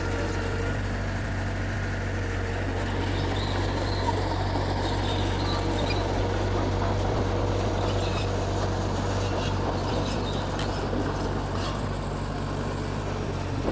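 Diesel engine of a Mitsubishi G2 bulldozer running steadily while pushing soil, with a deep, even engine note and a few faint clicks in the second half.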